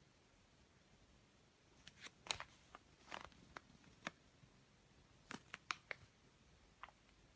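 Near silence broken by a few faint, irregular clicks and taps.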